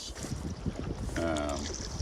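Strong gusty wind buffeting the microphone with a low rumble, heard from a canoe on the river, with faint water splashing above it. A short voiced sound comes about a second in.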